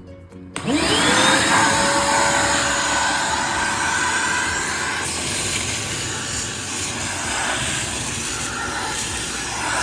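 An electric motor switches on about half a second in, its whine rising quickly as it spins up and then holding one pitch, and runs steadily with a loud rush of air.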